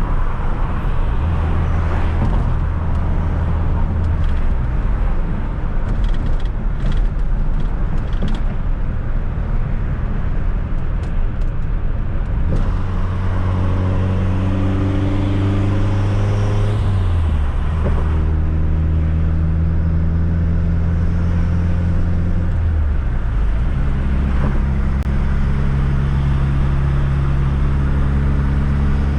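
Fiat Coupe 16V Turbo engine pulling the car along a road, its pitch holding steady and then stepping to a new level several times as the revs change, over steady road noise.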